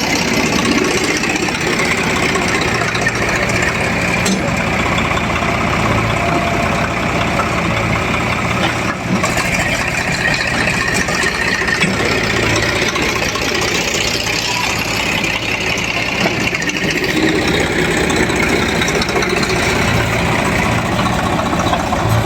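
Diesel engines of a backhoe loader and tractors running steadily, with the low engine note swelling now and then.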